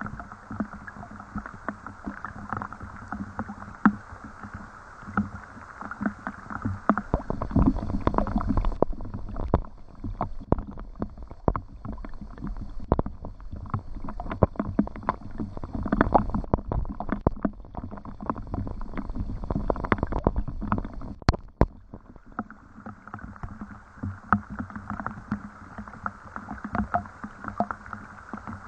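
Rain falling, with a dense, irregular patter of drops. From about eight seconds in, a deeper rumble with heavier knocks comes in, then gives way to the lighter patter again a little after twenty seconds.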